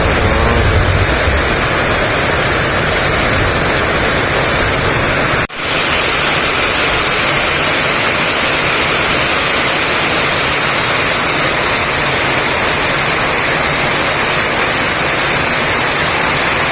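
Heavy rain driven by strong wind: a loud, steady roar of rain that breaks off for an instant about five and a half seconds in.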